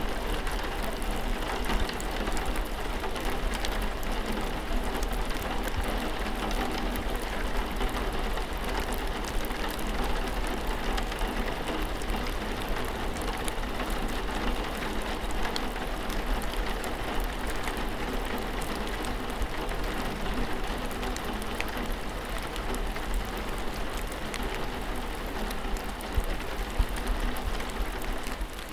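Steady rain: an even hiss with many small drop ticks, over a steady low hum.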